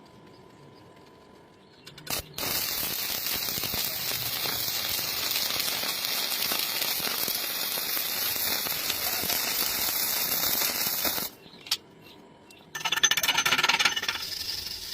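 Electric arc welding: the arc strikes about two seconds in and crackles steadily for about nine seconds, then breaks off. Near the end comes a short, louder rasping burst.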